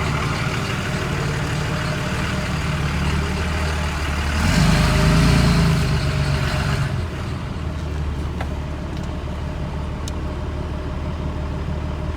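24-valve Cummins inline-six diesel running as the truck moves off under its own power in drive, its downpipe not yet hooked up to the exhaust. About four and a half seconds in the engine note rises and grows louder for roughly two seconds, then settles back to a steady run.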